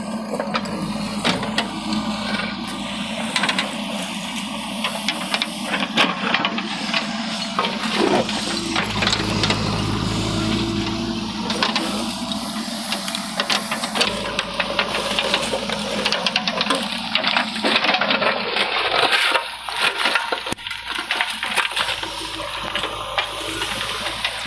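Bricks clattering and knocking against each other and a tractor trolley as a JCB 3DX backhoe loader loads them, with many sharp knocks over the steady hum of an engine running.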